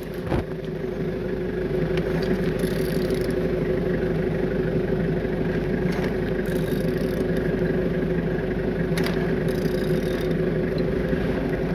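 Used engine, code FJ60JYN, turned over steadily for a compression check, with a steady mechanical hum that builds up over the first second or two and then holds even. The engine sounds even throughout, with all compressions complete.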